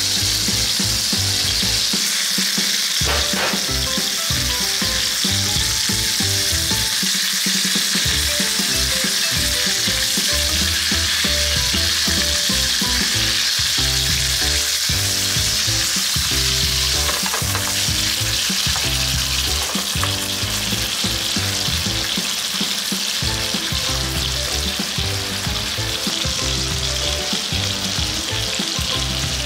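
Chicken thigh, bacon strips and eringi and shiitake mushrooms sizzling steadily in butter in a frying pan.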